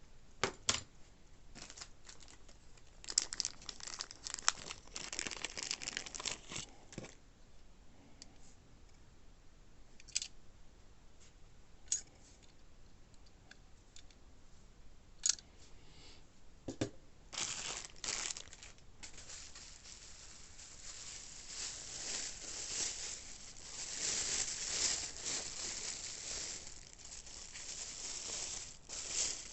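Packing material being torn and crumpled by hand while items are unwrapped from a box: scattered clicks and short rustles at first, then continuous crinkling over the second half.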